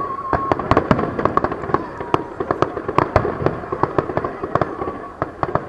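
Aerial firework shells bursting: a fast, irregular stream of bangs and crackles, several a second.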